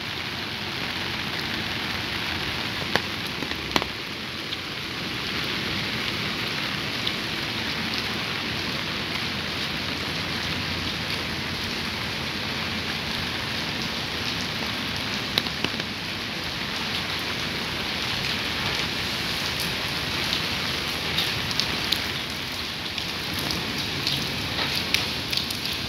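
Steady rain falling on a wet paved road: an even hiss with scattered sharper ticks of drops, which come more often near the end.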